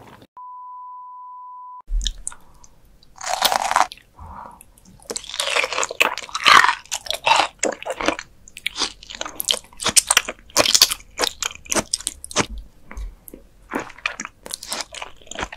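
A steady beep tone lasting about a second and a half. Then close-miked ASMR chewing and biting of raw liver and pale raw offal: wet, sticky mouth sounds with crunches and many sharp clicks.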